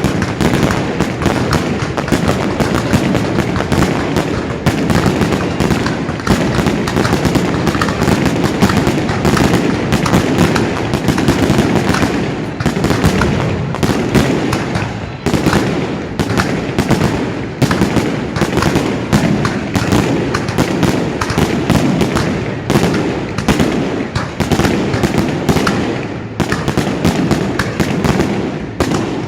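Fireworks display going off continuously: a dense stream of bangs and crackling over a rumbling wash of booms, loud throughout and thinning slightly near the end.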